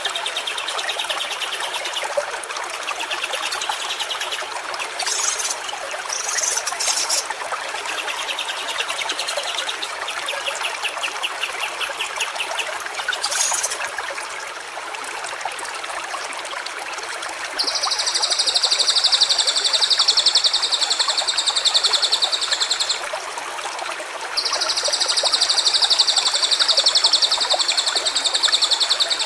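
Water of a stream running steadily, with high rapid trills in the first half and two long, loud high buzzes of about five seconds each in the second half.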